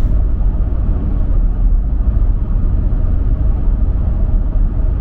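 A car driving at highway speed: a steady low rumble of road and engine noise.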